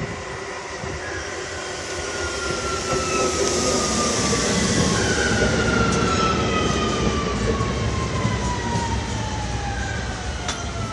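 Metro train in an underground line slowing down, its motor whine sliding steadily downward in pitch over a rushing rolling noise that swells and then eases: the train braking into a station.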